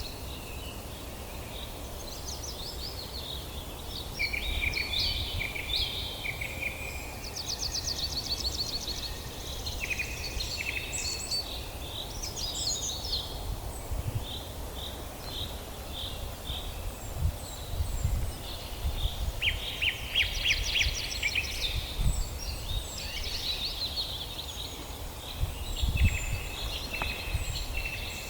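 Several songbirds singing at once in a dawn chorus: overlapping trills, rapid chip series and short whistled phrases, over a steady low rumble.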